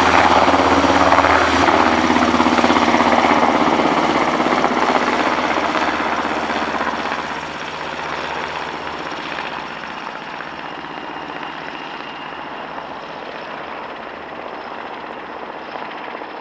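NH90 military helicopter flying away after takeoff, its rotor and turbine sound loud at first and falling off over the first seven seconds or so, then steadier and quieter.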